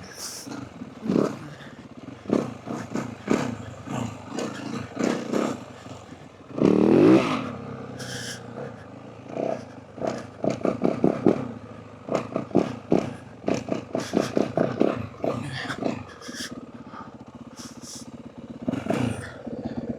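Yamaha WR450F dirt bike's single-cylinder four-stroke engine revving in short, uneven throttle bursts while riding over rough, holed ground. A louder rev rises and falls about seven seconds in.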